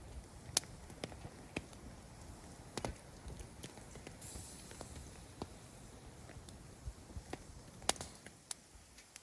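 Wood campfire crackling: irregular sharp pops over a low steady rustle, the loudest about half a second in and just before eight seconds.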